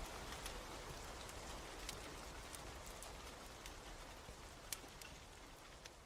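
Steady rain with the occasional sharp crackle of a wood fire, about five pops, the whole slowly fading down.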